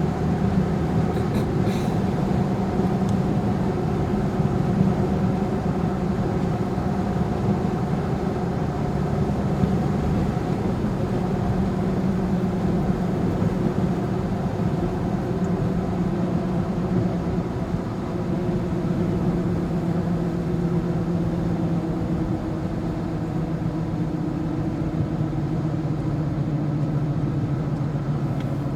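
A vehicle's engine and road noise heard from inside the cab while driving, a steady drone whose pitch drifts slightly.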